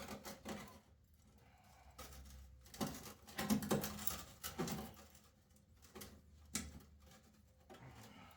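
Scattered light knocks and clatter of things being handled, busiest about three to five seconds in, with quiet gaps between.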